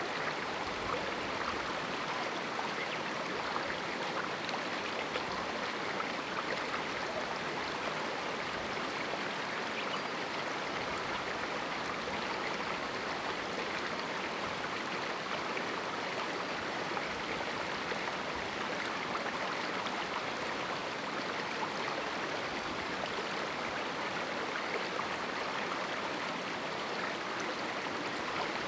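Small river rushing steadily over rocks in a canyon: an even, unbroken water noise.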